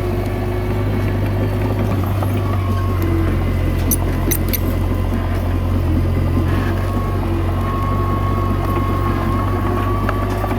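Komatsu D21A bulldozer's diesel engine running steadily, with a thin whine over it and a few sharp clicks about four seconds in.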